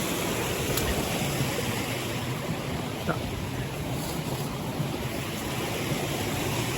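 Mountain stream water rushing steadily, an even, unbroken hiss of flowing water.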